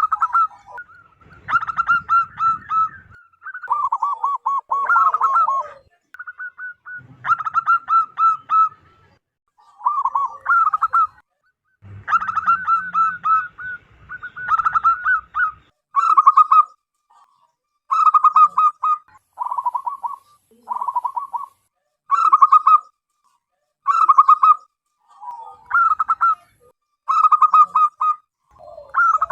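Zebra dove singing its cooing song: short phrases of rapid staccato coos, repeated about every one to two seconds with brief pauses.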